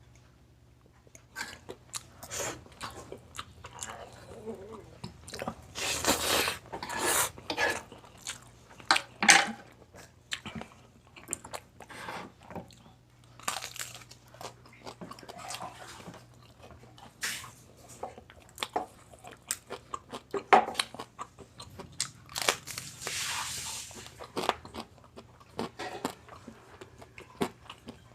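Close-up eating sounds: crisp, deep-fried crispy pata being bitten and chewed, with irregular crunches and wet chewing clicks. There are two longer bursts of heavy crunching, about six seconds in and again near twenty-three seconds.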